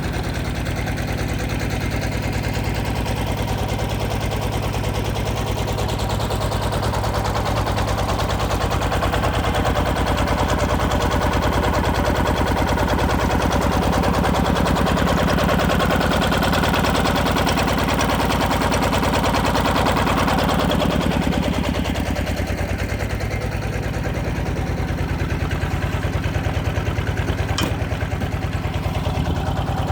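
Single-cylinder diesel engine of a walking tractor running steadily with a fast, even chugging while it powers a hydraulic log splitter. For about thirteen seconds in the middle it runs a little louder with a higher-pitched tone added, then settles back; a single sharp click comes near the end.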